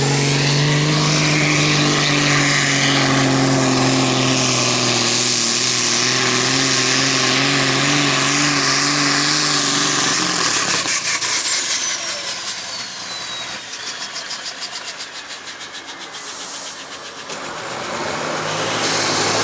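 Super Sport class pulling tractor's engine held flat out at high revs during a pull. About ten seconds in it drops off sharply to a quieter run, and a high whine falls away slowly. The engine comes up again near the end.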